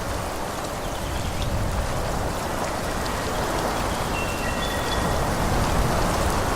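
Steady forest ambience: a continuous rushing hiss with a low rumble and scattered faint ticks. A few brief, faint high whistled notes come about four seconds in.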